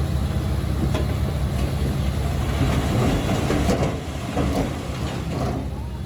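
Diesel engine of heavy earthmoving machinery running steadily, with metallic clanking and scraping that is heaviest around the middle and eases off about four seconds in.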